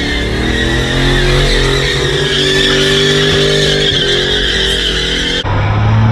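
A car doing a burnout: the engine held at high revs while the tyres squeal. Near the end it cuts abruptly to another loud engine sound.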